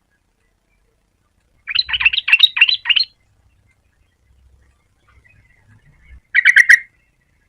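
Yellow-vented bulbul singing: a bubbly burst of quick chattering notes, then a second, shorter burst near the end.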